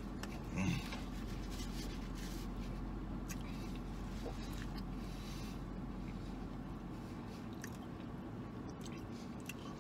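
A man chewing a mouthful of hamburger, with soft scattered mouth clicks and one slightly louder bite sound about half a second in, over a steady low hum.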